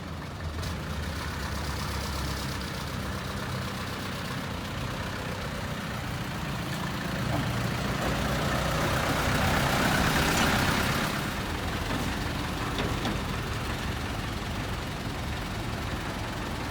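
Tow truck engine running steadily as the truck drives. A louder rushing noise swells and fades from about eight to eleven seconds in.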